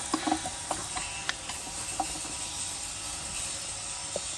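Hand tools being worked on a diesel engine: scattered, irregular metal clicks and taps over a steady hiss.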